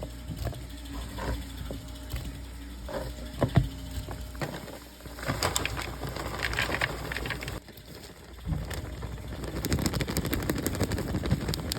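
Kitchen food-preparation sounds: scattered knocks and clicks, like a knife on a cutting board and utensils being handled, with stretches of busy rustling and clatter in the second half.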